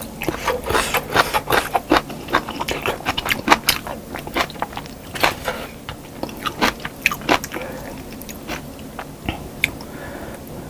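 Close-up eating sounds of a mukbang meal of fried chicken wings and rice: biting and chewing with many crisp crunches, thinning out after about eight seconds.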